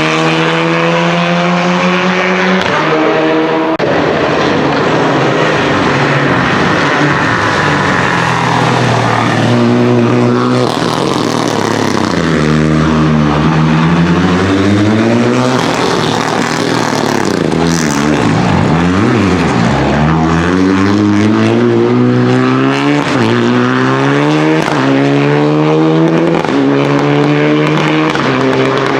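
Renault Clio Rally4's turbocharged 1.3-litre four-cylinder engine driven hard: the pitch climbs and drops back again and again as it shifts up through the gears, with a deep fall and rise in pitch about two-thirds of the way through.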